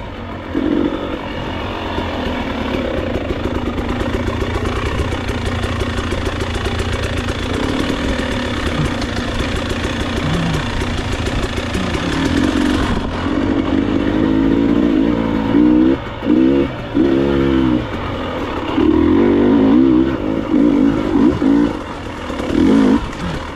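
Enduro motorcycle engine running under throttle, its pitch rising and falling several times in the second half as the revs go up and down.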